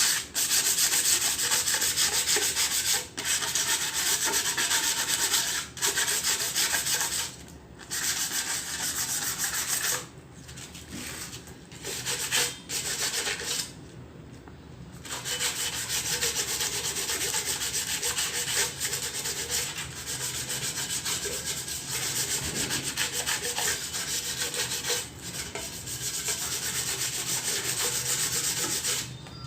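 Sandpaper being rubbed by hand over a rusty metal exhaust manifold to scour off the rust: rapid, steady scraping strokes, with several short pauses.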